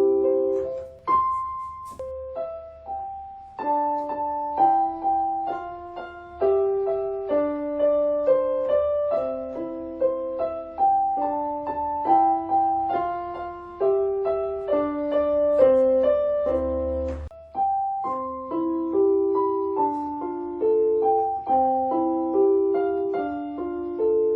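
Piano music: a gentle melody of single notes and chords, each note struck and left to fade.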